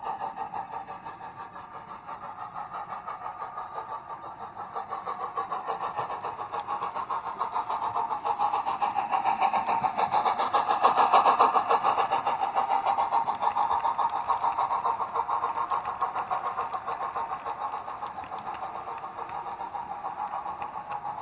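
Sound-fitted 00 gauge model diesel locomotive running, its speaker playing a diesel engine's rhythmic, pulsing throb. It grows louder to about halfway, then fades as the train passes by.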